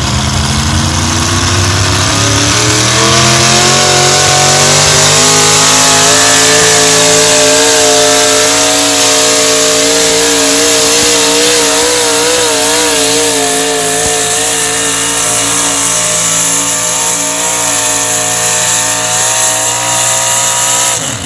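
Unlimited-class pulling truck's engine run flat out under load, pulling the sled at full RPM. The revs climb over the first few seconds, then hold high with a wavering pitch, and drop away suddenly at the end as the truck comes off the throttle.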